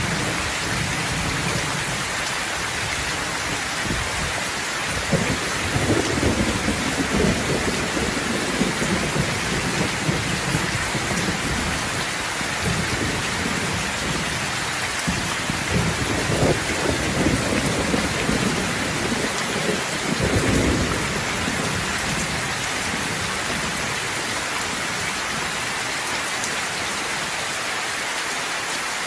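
Steady rain falling in a thunderstorm, with thunder rumbling twice: about five seconds in for a few seconds, and again from about fifteen to twenty-one seconds.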